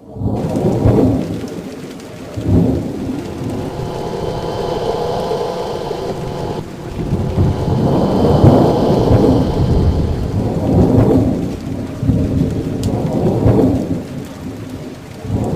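Thunder rumbling in repeated swells, one after another, over steady rain.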